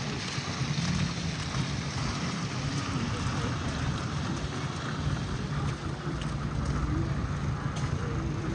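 Steady rushing city street noise, traffic and wind, with a low engine hum underneath and a few faint ticks.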